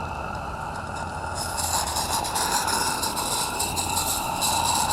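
Live-steam Roundhouse Lady Anne model locomotive hissing steadily. About a second and a half in, a louder, rapidly flickering rush of steam starts as steam is worked through the cylinders.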